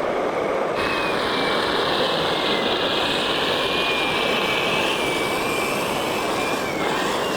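A radio-controlled model truck or construction machine running: a steady mechanical whir with a thin, high whine that starts about a second in and wavers slightly in pitch, typical of the model's electric drive motor.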